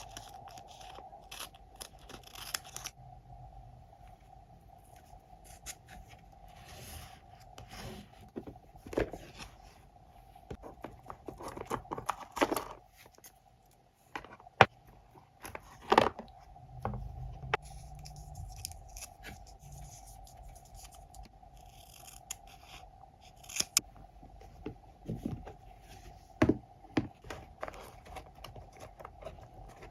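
Scissors cutting paper in short snips, mixed with paper handling, light scrapes and taps on a desk. A faint steady hum runs underneath.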